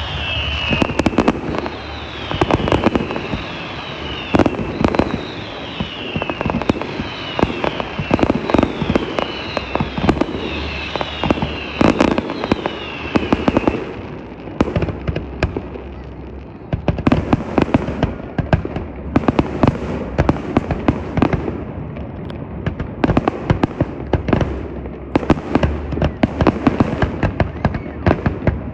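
Fireworks going off in quick succession, a dense run of bangs and crackling pops. Over roughly the first half, a high whistle falls in pitch again and again, about once every second and a half.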